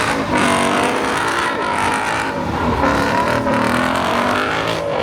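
Car engine held at high revs while the car spins its wheels in a burnout or donut.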